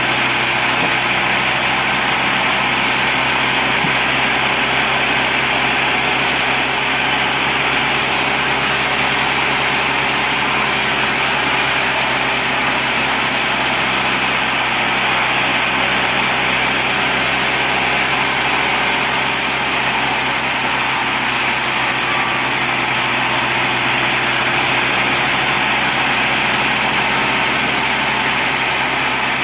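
Sawmill band saw running steadily: a continuous machine hum with a hiss over it, unchanging throughout.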